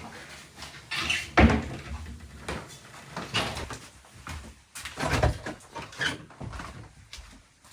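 A series of irregular knocks and thumps of things being handled, the loudest about one and a half seconds in and again about five seconds in.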